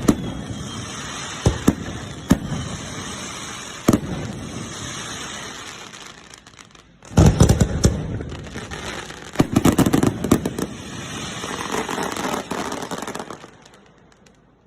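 Aerial fireworks shells bursting close by: single sharp booms over a steady crackle, then a dense volley of rapid bursts about seven seconds in. Crackling stars follow and fade out near the end.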